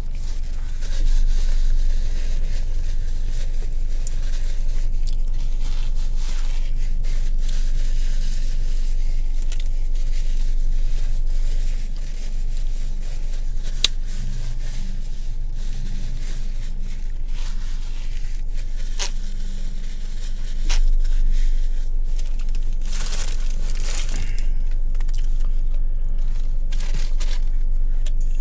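Eating a Subway meatball sub: paper wrapper crinkling and tearing, with a few sharp clicks, over a steady low hum.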